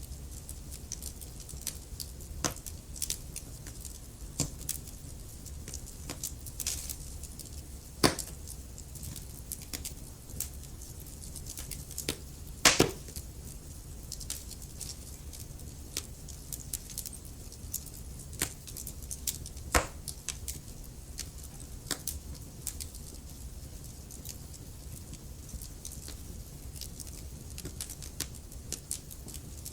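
Wood fire crackling, with irregular sharp pops and snaps over a low steady rumble of the flames; a few louder pops stand out, around 8 s, 13 s and 20 s in.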